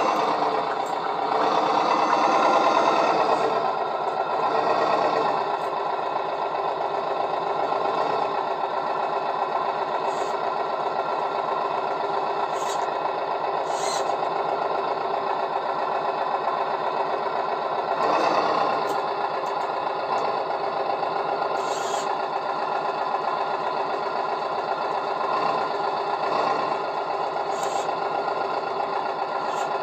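Small electric gear motor of a converted toy crane truck running continuously with a steady whine. The pitch and loudness swell a little twice, and a few light clicks come through.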